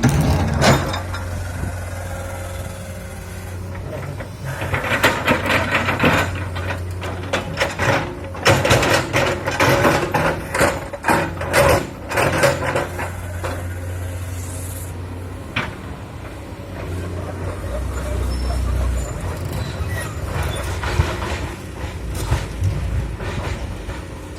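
Komatsu PC200 hydraulic excavator's diesel engine running steadily, with a run of sharp knocks and scrapes between about 5 and 13 seconds in as stone boulders are moved.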